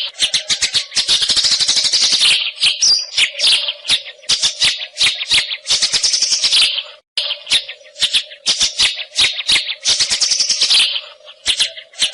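White-rumped shama singing in fast rattling, clicking runs of high notes, with a short break about seven seconds in.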